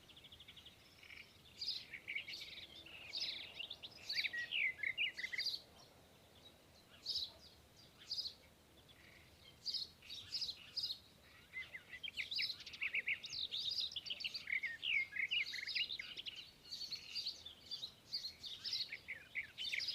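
Small birds chirping in quick bursts of short high notes, with a lull of a few seconds about a third of the way through.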